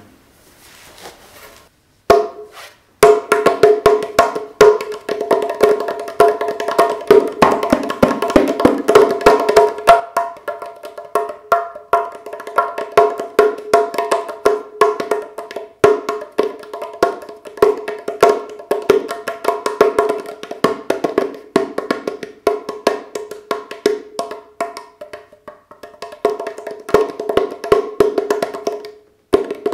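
The larger drum of a Moroccan tbilat pair, a handmade clay body with a goat-skin head, played with the fingers in fast, irregular taps. Each tap has a ringing pitched tone. The playing starts about two seconds in, with a short lull near the end.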